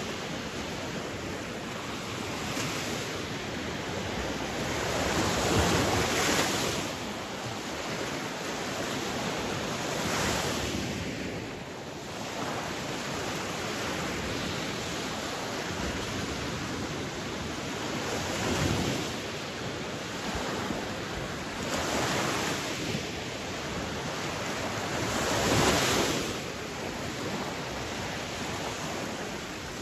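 Sea waves breaking and washing on a shore, a steady rush of surf that swells louder every few seconds, with wind noise on the microphone.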